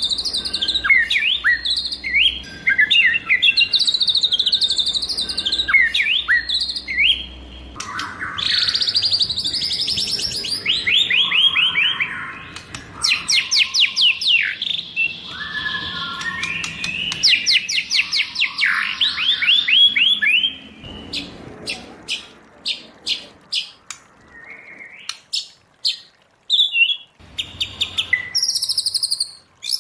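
White-rumped shama singing a varied song: rich whistled phrases, then long fast runs of repeated notes through the middle, then sharp clicking notes and high whistles near the end.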